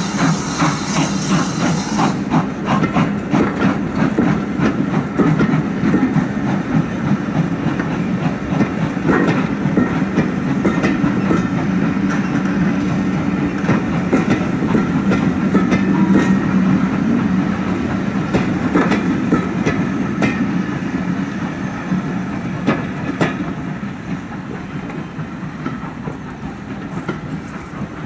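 Passenger coaches of a departing steam-hauled train rolling past, their wheels clicking and clattering over rail joints over a steady rumble. A hiss cuts off about two seconds in, and the clatter eases off near the end as the last coaches go by.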